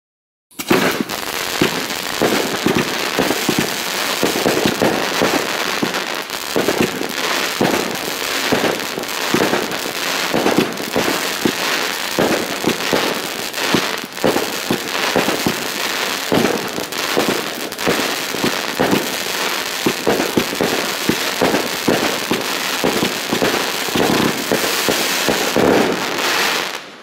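Funke Dahliencracker 36-shot 25 mm firework battery firing: a dense, unbroken run of launches and crackling from its crackle tails and crackle bouquets. It starts about half a second in and cuts off sharply near the end.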